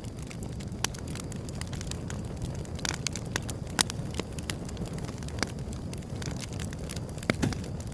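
Wood fire burning: a low steady rumble with irregular sharp crackles and pops of burning wood, a louder pop a little under four seconds in and another near the end.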